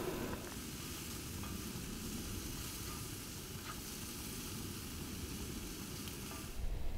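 Food sizzling in a pan on a camp stove, a steady frying hiss that drops away shortly before the end with a low bump.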